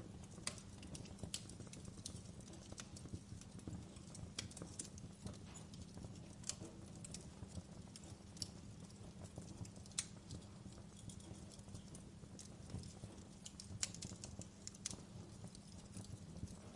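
Wood fire crackling in a fireplace: a low steady rumble of flames with irregular sharp pops and snaps from the burning logs.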